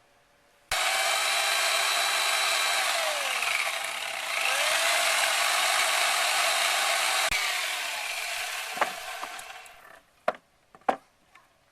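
Corded electric chainsaw switched on suddenly and cutting wood, its pitch dipping and recovering partway through as it labours in the cut. It is released and winds down, followed by a few sharp knocks near the end.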